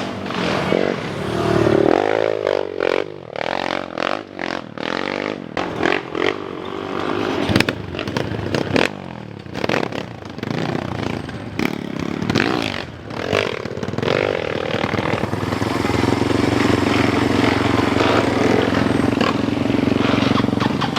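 Motocross bike engines revving up and down on a steep climb, with many sharp knocks and clattering; an engine holds a steadier note for the last few seconds.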